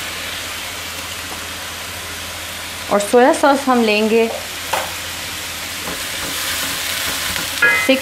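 Diced vegetables frying in oil in a nonstick wok, a steady sizzle. A short spoken remark about three seconds in, and a wooden spatula starts stirring near the end.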